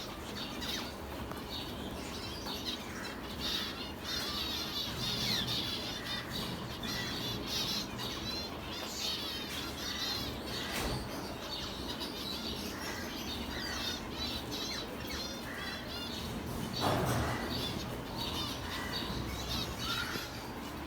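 Many small finches chirping and twittering in quick high calls, over a steady low background noise. About three-quarters of the way through, a brief louder noise rises over the chirping.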